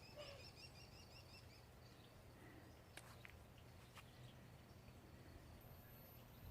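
Faint outdoor quiet with distant songbird song: a quick trill of repeated high notes fading out about a second in, then a faint chirp, plus two faint clicks.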